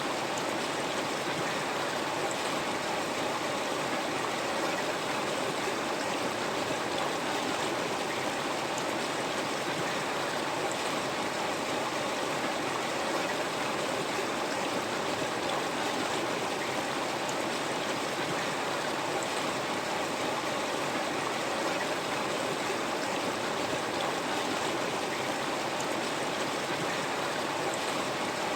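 River water flowing over rocks, a steady rushing noise with no change in level.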